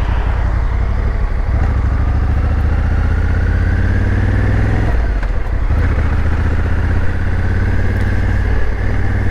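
Motorcycle engine running while riding, climbing in pitch as it accelerates for a few seconds, then dropping back about halfway through and running steady.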